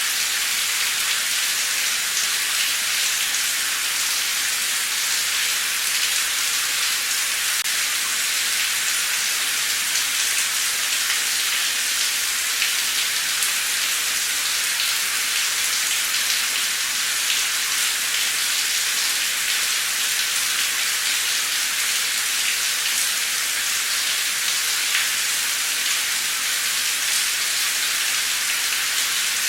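Heavy, torrential rain pouring steadily, an even dense hiss of countless drops with fine pattering ticks.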